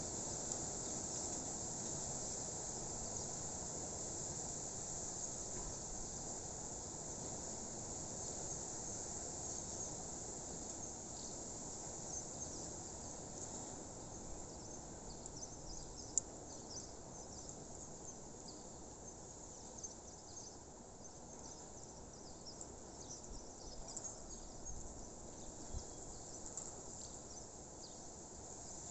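Steady high-pitched chorus of insects in a natural outdoor soundscape, with a low even background hiss. Scattered short high chirps come through in the second half, and there is one sharp click about halfway through.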